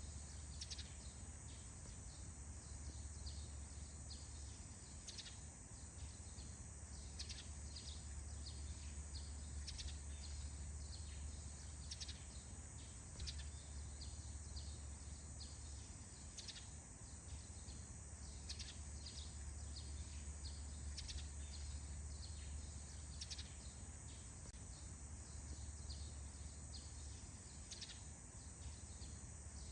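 Faint forest ambience: scattered short bird chirps over a steady high-pitched hiss and a low rumble.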